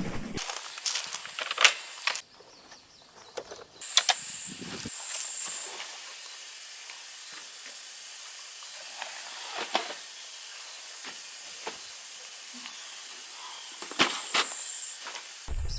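Cicadas droning in a steady, high-pitched chorus, broken by a few light knocks about four seconds in and again near the end.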